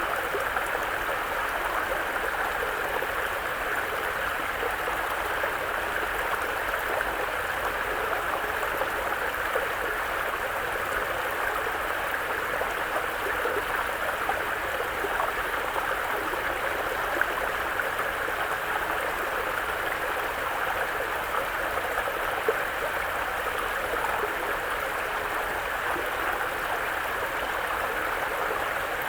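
Mountain brook flowing steadily over rocks, a continuous babbling and gurgling of water.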